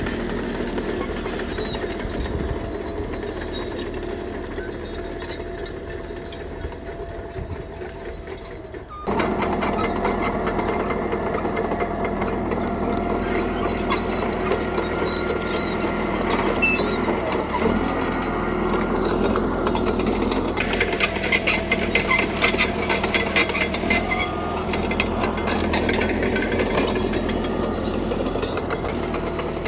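CAT D3K crawler bulldozer's diesel engine running under load while the machine works gravel, with the squealing and clatter of its steel tracks. The engine gets suddenly louder about nine seconds in, and a stretch of high track squeal comes past the middle.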